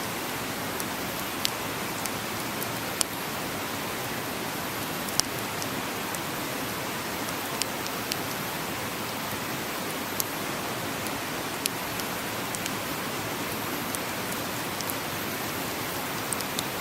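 Wood campfire crackling: sharp single pops at irregular intervals, several seconds apart, over a steady rushing hiss.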